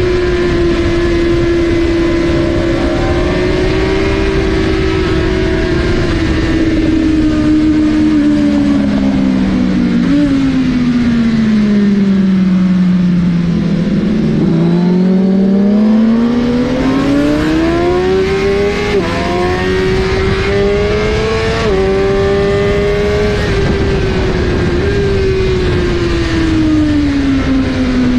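Suzuki GSX-R1000R inline-four engine lapping a race track at high revs. Its pitch falls steadily to a low point about halfway through as the rider rolls off and downshifts for a slow corner. It then climbs back hard with quick stepped upshifts and eases off again near the end, over a constant rush of noise.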